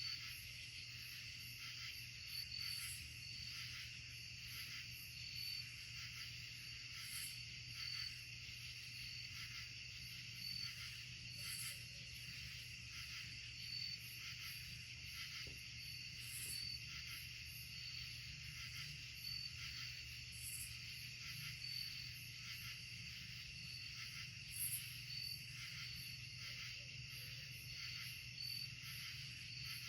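Night insect chorus of crickets: a steady high trilling with a chirp pulsing about once a second, and a higher buzz repeating every few seconds. A low steady hum lies underneath.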